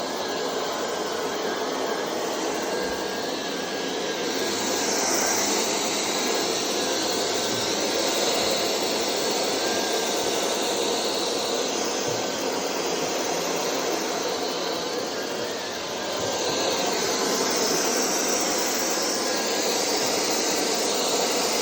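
Vacuum cleaner running steadily with a wide rushing hiss. Twice it grows louder and brighter for several seconds, from about four seconds in and again from about sixteen seconds in.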